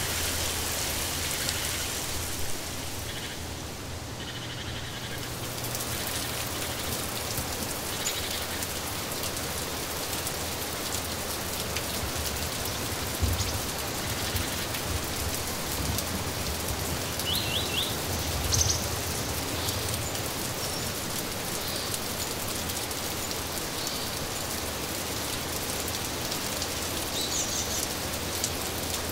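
Steady rain falling, with a few short bird chirps now and then and a couple of brief low thumps.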